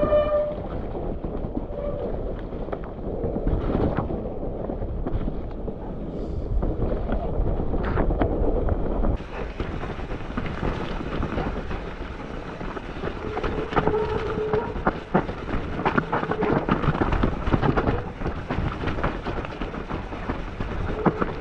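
Riding noise from a Trek Remedy 8 full-suspension mountain bike on a rough, wet trail: wind buffeting the camera microphone, tyres over roots and stones, and constant chain and frame clatter. Short brake squeals come in a few times in the second half.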